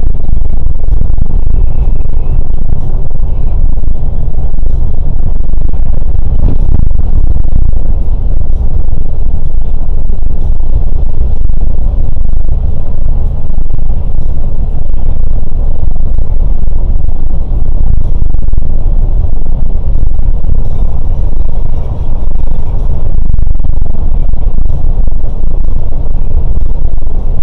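Loud, steady low rumble of a Scania K410 coach under way: engine and road noise.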